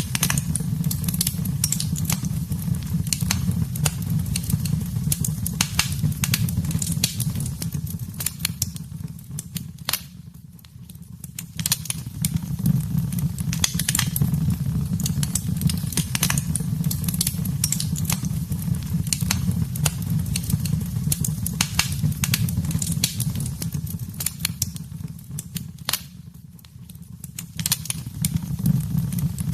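Wood fire in a fireplace crackling, with many sharp pops and snaps over a steady low rumble of the flames. The sound dips briefly twice, then comes back.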